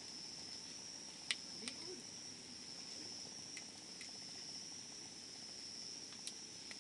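Wood campfire burning, with a few sharp crackles and pops, the loudest a little over a second in, over a low hiss. A steady high-pitched insect trill runs underneath.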